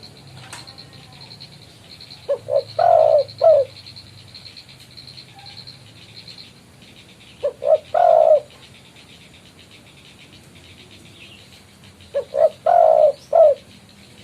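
A spotted dove (tekukur) calls vigorously, a male's call to rivals. It gives three coo phrases about five seconds apart, each two quick short notes, a longer coo and a short closing note.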